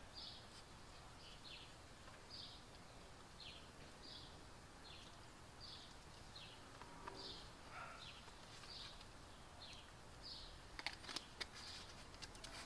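A small bird calling faintly in the background, repeating a short, high, falling chirp about once a second. A few sharp clicks come near the end.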